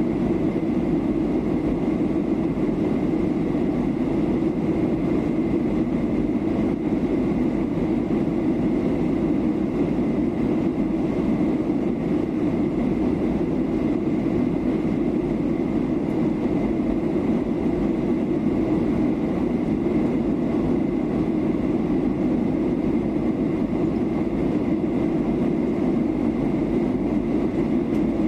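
Steady in-flight cabin noise of a Boeing 737-800 during descent: the even rush of airflow and engine noise, with a faint steady high whine above it.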